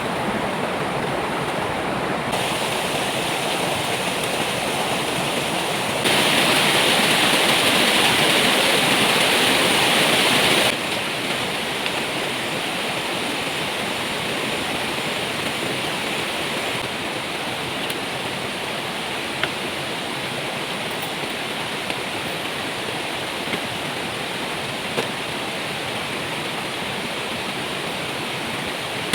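Heavy rain pouring steadily, a constant hiss of water that changes in tone and loudness at a few abrupt cuts and is loudest for several seconds about a quarter of the way in. A few light taps stand out in the second half.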